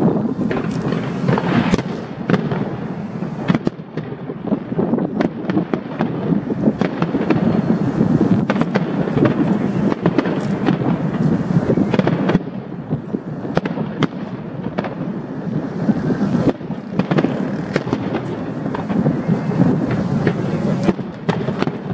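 Aerial fireworks going off in a dense, continuous barrage: many bangs and crackles overlapping, over a steady rumble, with a few sharper reports standing out.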